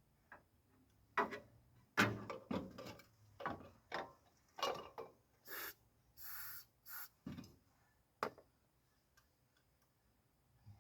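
A run of sharp clanks and knocks, then three short hisses from an ether starting-fluid aerosol being sprayed into the engine about five and a half to seven seconds in, and one last clank.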